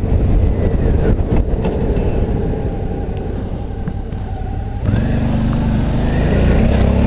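Suzuki V-Strom's V-twin engine running with a rough low rumble. About five seconds in, its note steps up and climbs slowly as the bike pulls away onto the road.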